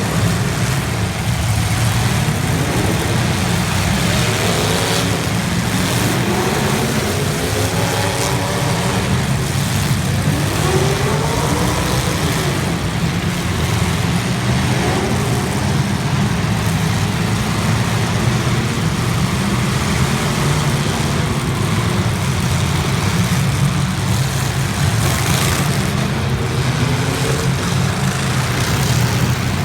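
Several demolition derby cars' engines running together, repeatedly revving up and dropping back, their pitches overlapping.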